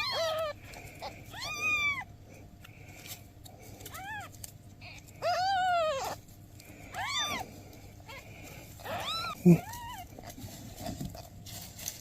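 Newborn kittens meowing: about seven high-pitched cries, each rising then falling in pitch, with a longer one near the middle. A short knock about nine and a half seconds in.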